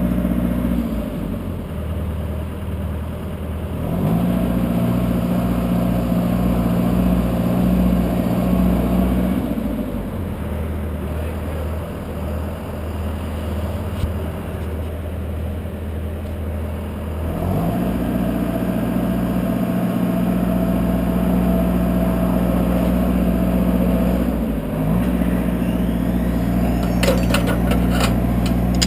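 A lifting truck's engine running and working its hydraulics, stepping up to a faster speed and dropping back to idle twice. A few sharp clicks come near the end.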